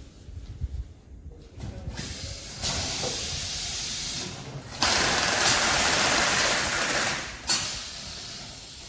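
Packaging machinery running, with stretches of steady hissing that switch on and off abruptly; the loudest lasts nearly three seconds in the second half.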